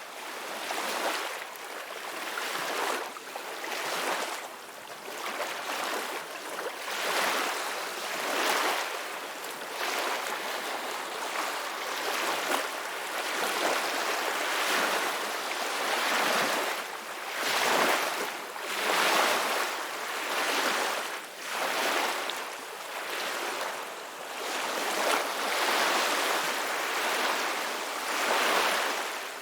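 Ocean waves breaking and washing ashore, each surge swelling and fading every second or two.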